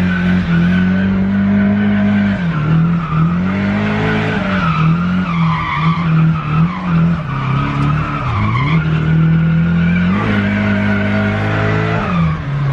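Nissan S13's turbocharged SR20DET four-cylinder engine revving up and down repeatedly with tyres squealing as the car drifts, the revs dropping sharply and climbing again about eight seconds in.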